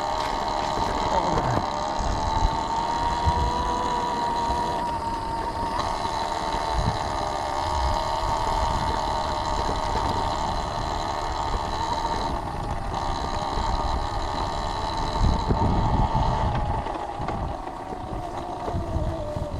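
Electric dirt bike's motor whining steadily while riding, over a low rumble. The whine drops in pitch near the end as the bike slows.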